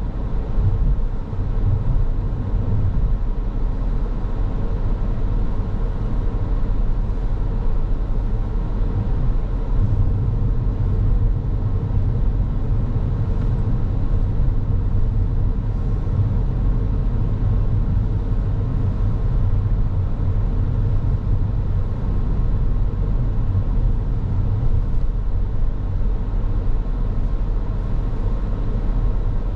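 Car on the move: steady road and engine rumble with tyre noise, even throughout at cruising speed.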